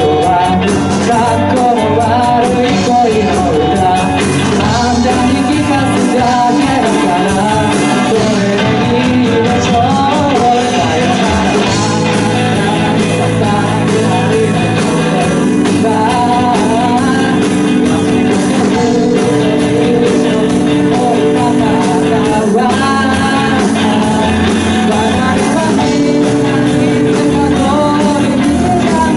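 A live band playing a pop song, with a sung melody over keyboard and a steady beat.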